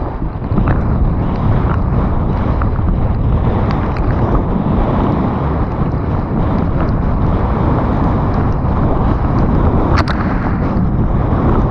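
Mountain bike descending a wet trail at speed: steady wind rushing over the microphone with tyre and trail rumble, scattered light clicks and rattles, and one sharper click about ten seconds in.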